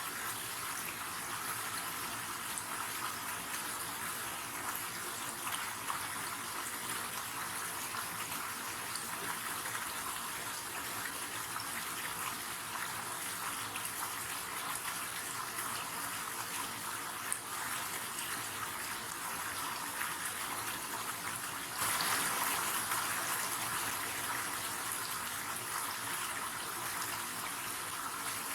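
Steady rush of flowing river water, which becomes suddenly louder about three quarters of the way through.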